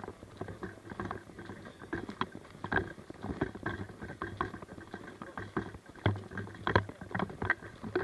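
Footsteps crunching over rough ground, about two a second and irregular, with rustling of clothing and gear.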